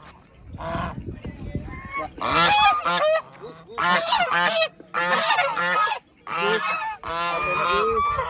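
Geese honking repeatedly, with a series of loud calls in bouts of about a second and short pauses between them.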